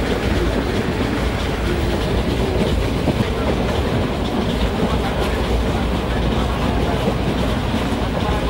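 Passenger train running, heard from inside the carriage: a steady, loud, noisy rumble.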